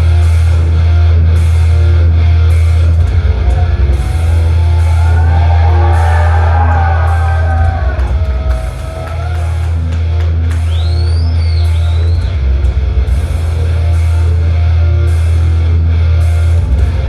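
Thrash metal band playing live: distorted electric guitars, bass and drum kit, loud, with a heavy booming low end.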